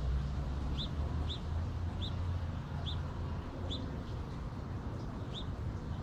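A small bird chirping: six short, high chirps at uneven gaps of about half a second to a second and a half, over a steady low rumble.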